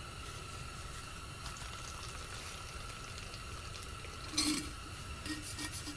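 Faint handling of gasoline being drawn from a chainsaw's fuel tank into a plastic squeeze bottle, with light liquid sounds and a brief louder noisy burst about four and a half seconds in.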